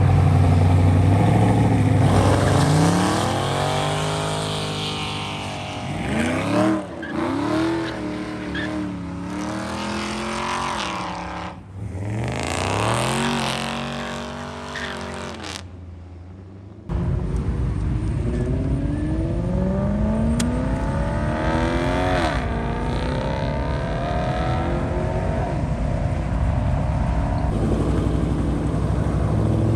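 Cars pulling out of a parking lot, their engines revving and rising in pitch as they accelerate away one after another. About halfway through the sound cuts abruptly to a steady, loud low engine rumble with more rising revs.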